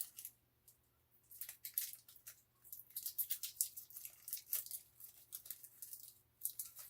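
Wrapper of a washing machine cleaner tablet being torn and crinkled open by hand: a run of irregular crackles and short rips.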